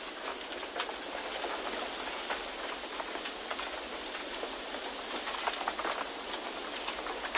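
Steady white-noise nature ambience: an even hiss with many light, irregular taps scattered through it, like rain pattering.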